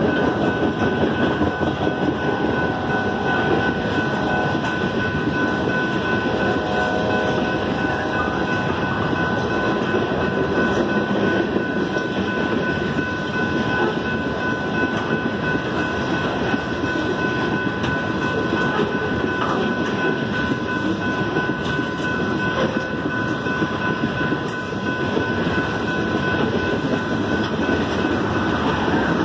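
Freight train of tank cars rolling past at a grade crossing: a steady rumble of steel wheels on the rails, with clacking over the rail joints. A thin steady high tone runs through it.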